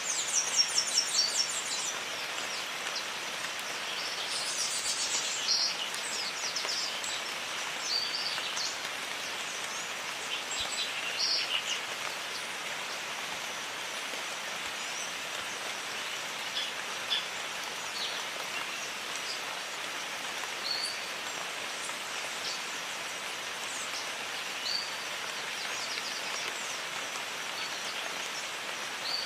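Steady jungle rain with birds calling over it: a quick run of high repeated notes in the first second and a half, more calls a few seconds in, then scattered short chirps.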